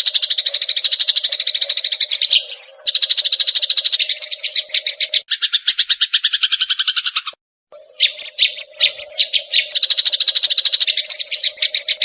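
Eurasian tree sparrows' fighting calls: fast, unbroken strings of harsh chirps, switching to a lower, rougher chatter about five seconds in and breaking off briefly past the middle before resuming. A faint steady hum lies underneath.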